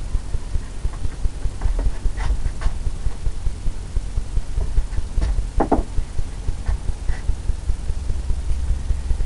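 Bristle brush scrubbing and tapping wet oil paint on a stretched canvas, blending a misty horizon: a steady, rapid rhythmic brushing with low thumps at about three or four strokes a second.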